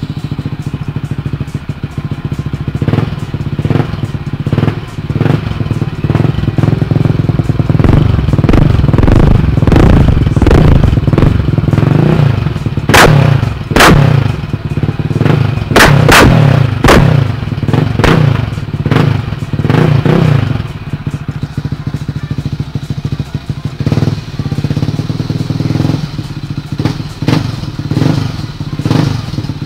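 2008 Suzuki LT-R450 quad's 450 cc single-cylinder four-stroke engine revving again and again through an Akrapovic Evolution full exhaust. About halfway through there is a run of sharp cracks, and one more comes near the end.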